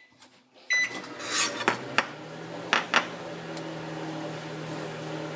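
A microwave oven beeps once about a second in, then starts and runs with a steady hum, with a few clicks in the first couple of seconds of running.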